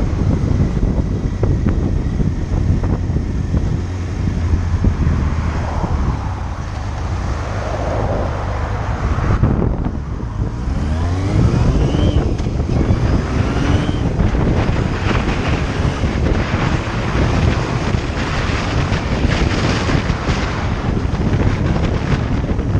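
Motorcycle engine running under way, with heavy wind buffeting on the microphone. About halfway through, the engine note climbs twice in quick succession as the bike accelerates.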